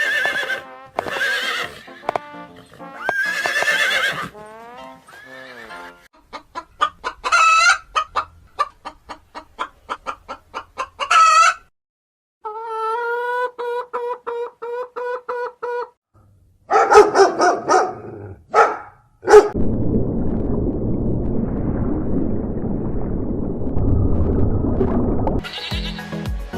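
A series of farm animal calls over background music, among them chickens clucking and a rooster crowing.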